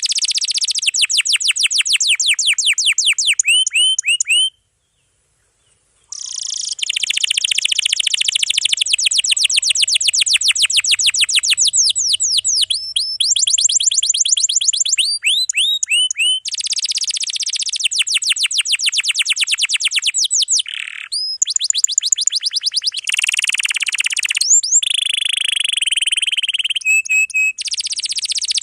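Domestic canary singing long rolling trills: fast runs of high, downward-sweeping notes at about ten a second, switching between phrases every few seconds, with a full break of about a second and a half about four and a half seconds in.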